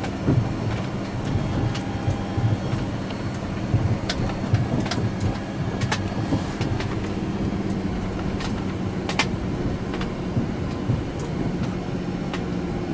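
Airliner flight deck during a tow: a steady hum with a low rumble, broken by scattered sharp clicks and rattles as the aircraft rolls along behind the tug with its APU running.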